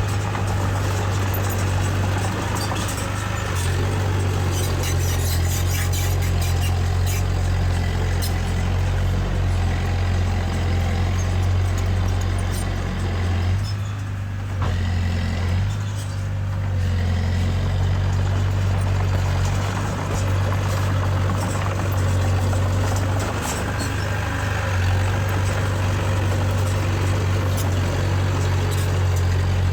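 Heavy earthmoving machine's diesel engine running steadily with a deep, low drone, with scattered short metallic clicks and rattles over it.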